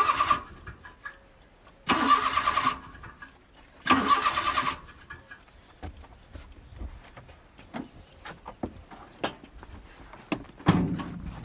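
Car's starter motor cranking in short bursts about two seconds apart, the engine not catching. Scattered clicks follow, then a loud knock near the end.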